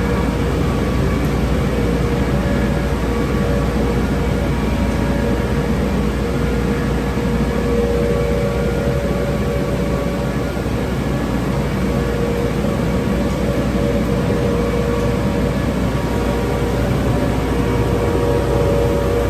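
Automatic car wash tunnel equipment running steadily: a constant rushing noise with a steady hum under it.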